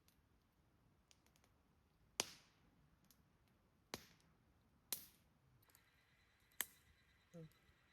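Burning firewood popping: four sharp, separate snaps spread a second or two apart, against near silence.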